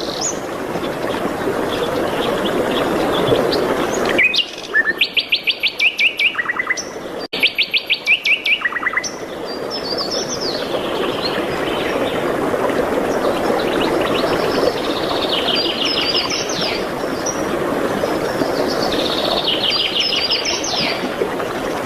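Songbirds singing fast trills of rapidly repeated chirps over a steady rushing background noise. About four seconds in, the background drops out for about five seconds while louder trills step down in pitch; later, higher trills return twice near the end.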